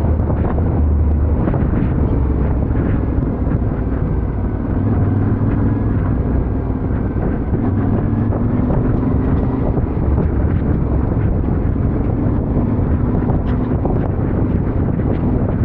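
Yamaha Ténéré 700's parallel-twin engine running steadily under way, with wind buffeting the microphone.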